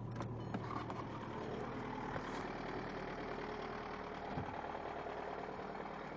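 Volkswagen Jetta TDI four-cylinder diesel engine idling steadily just after catching on a cold start at about minus 15, with the block heater not plugged in and after repeated glow plug cycles.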